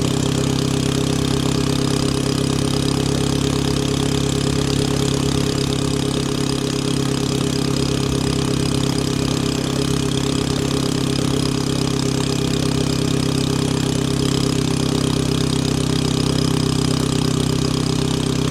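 Motorcycle engine running steadily at an even pitch, with no revving or gear changes.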